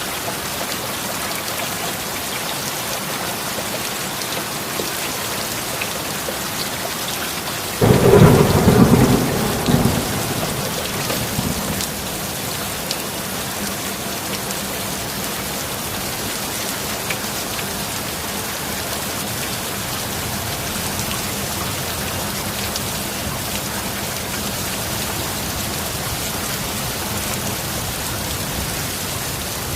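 Steady heavy rain with a single thunderclap about eight seconds in: a sudden loud crack that rumbles away over a few seconds, then the rain runs on alone.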